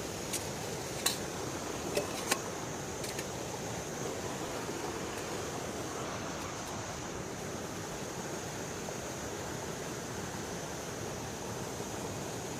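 Steady rush of flowing river water, with a thin steady high tone above it. A few sharp clicks or knocks come in the first three seconds or so.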